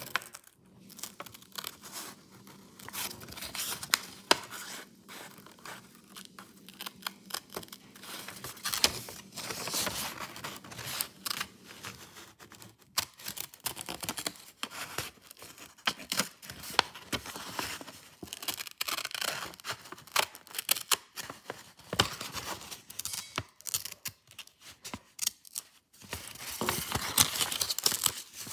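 Scissors cutting through a sheet of paper along a drawn line, snip after snip, with the paper rustling as it is handled. Near the end the paper rustle grows louder for a couple of seconds.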